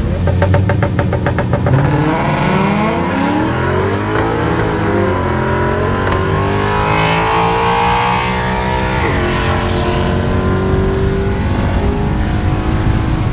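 Car engine accelerating hard on a street run: a rapid pulsing at first, then a pitch that climbs steadily for several seconds before dropping sharply at a gear change about nine seconds in, then running steady.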